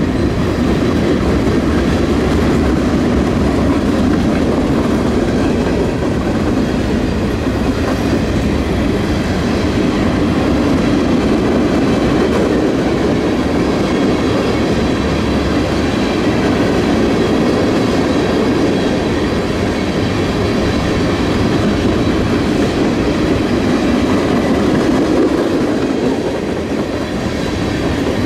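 Norfolk Southern mixed freight train's cars rolling past at speed: a loud, steady rumble with wheels clacking over the rail joints, and a faint high ringing over it.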